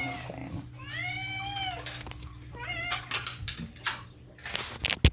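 Domestic cat meowing: one long, arching meow about a second in, then a few clicks and knocks, with a sharp click near the end. The meowing is demanding, meant to hurry a person along.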